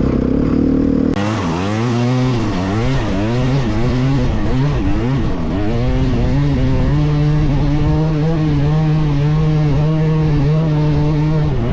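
Dirt bike engine revving hard, its pitch swinging up and down every second or so as the throttle is worked. It then holds a steadier, higher pitch for the last few seconds.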